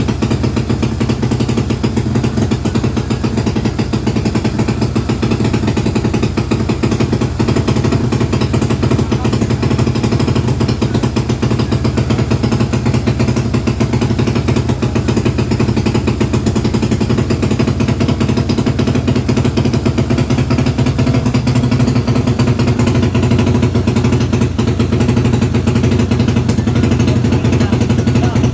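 Tuned Yamaha Mio scooter drag-bike engine, ported and built to '68 spec', running steadily at a constant speed during break-in. It has a loud, rapid, even exhaust pulse with no revving.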